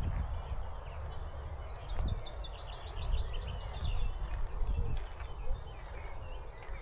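Steady hiss of heavy rain with scattered low thumps, and a bird singing a quick run of chirps about two to three seconds in.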